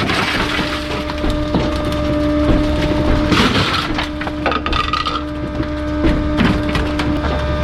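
A bulky-item garbage truck's compactor crushing a load, with repeated cracking and splintering as items break, over the steady hum of its hydraulics.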